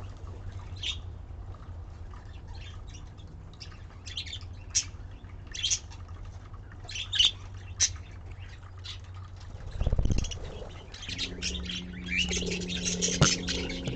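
Budgies chirping: short, high chirps scattered throughout, growing busier in the last few seconds. A dull thump about ten seconds in, and a low hum underneath.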